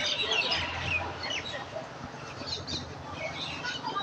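Small birds chirping and calling, many short quick chirps over a faint steady low hum.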